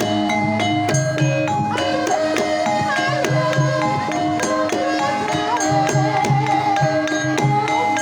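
Javanese gamelan music: struck bronze metallophones ring out a steady, even pulse of notes under sharp kendang hand-drum strokes. A sinden's voice winds in above the ensemble from about two seconds in.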